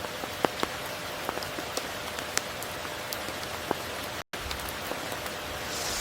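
Steady rain falling, with many individual drops ticking sharply close by. The sound cuts out completely for a split second about two-thirds of the way through.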